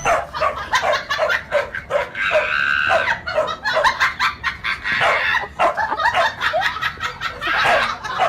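A dog barking and yipping in quick short bursts, with people laughing along.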